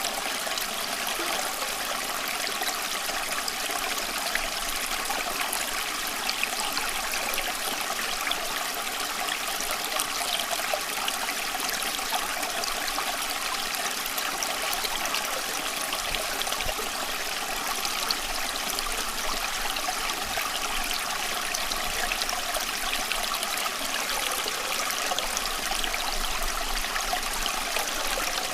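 Running water flowing steadily: an even, unbroken rush with fine splashing detail, strongest in the upper range.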